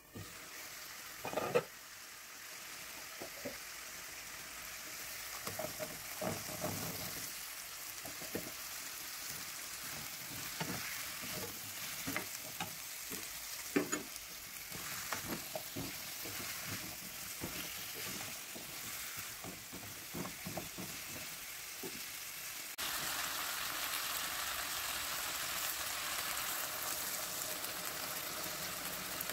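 Moringa drumstick pieces frying with spices in a pan, sizzling steadily, while a wooden spatula stirs them with scattered clacks and scrapes against the pan. About three-quarters of the way through, the sizzle gets louder.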